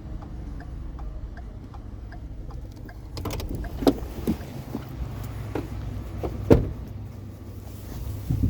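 Vehicle engine idling with a steady low hum; from about three seconds in, a series of sharp knocks and clanks as scrap is handled, the loudest about six and a half seconds in.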